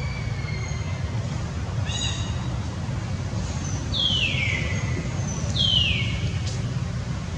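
A young monkey's high-pitched cries: a short call, then two louder calls that each slide down in pitch, over a steady low rumble.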